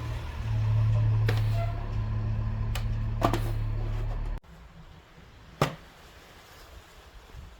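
A loud, steady low hum that cuts off suddenly about four seconds in, with a few sharp knocks scattered through it and one more, louder knock after it stops.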